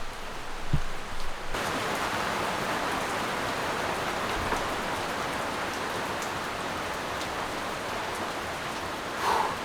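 Steady rain falling, starting abruptly about a second and a half in after a couple of low thumps, with a brief louder sound near the end.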